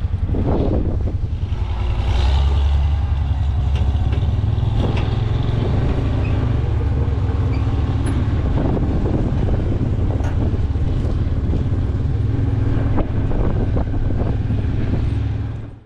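Old farm tractor engine running steadily with a rattly clatter over a low, even beat. It cuts off suddenly at the end.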